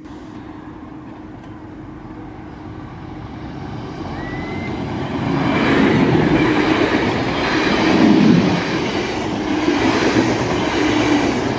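A train approaching and passing over the level crossing. Its running noise builds from about three seconds in and stays loudest through the second half.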